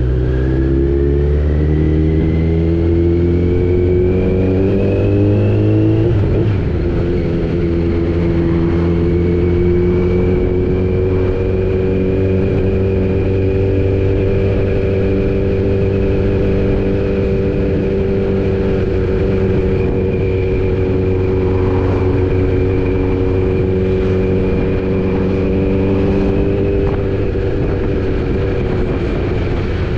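Kawasaki Z900's inline-four engine pulling in gear with its note rising, an upshift about six seconds in, then running at steady cruising revs.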